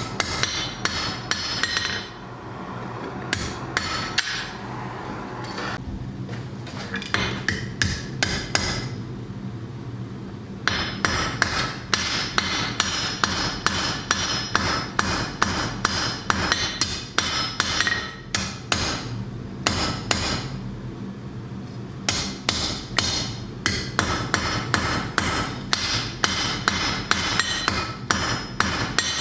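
A blacksmith's hammer strikes hot iron on an anvil in rapid runs of ringing blows, with a few short pauses, drawing out the shaft of a forged Thor's hammer pendant.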